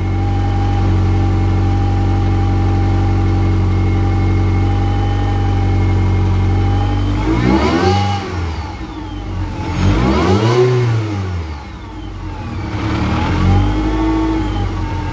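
Supercharged VW Scirocco engine idling steadily, then revved by hand three times, each rev rising and falling back to idle, the middle one the longest. Under the idle is a transmission rattle that comes from its lightened flywheel, which the owner calls normal.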